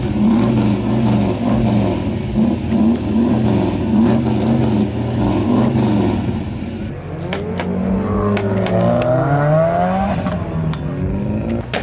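A car engine revved over and over in regular throttle blips, its pitch swelling and falling about once a second. About seven seconds in, engines rise in pitch as a car accelerates away, with more than one engine heard at once.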